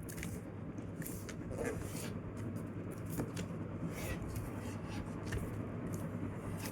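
A square sheet of paper being folded and creased by hand: soft rubbing and scraping with scattered crisp ticks as the fold is pressed down, over a low steady hum.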